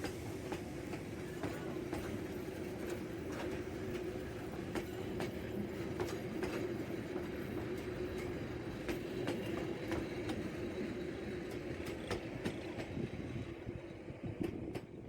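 Train rolling along the track, a steady drone with frequent sharp wheel clicks over the rails, fading near the end.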